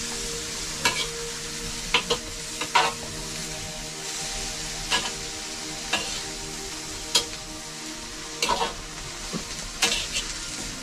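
Food sizzling in a pan while a spoon or ladle stirs it, scraping and knocking against the pan about once a second.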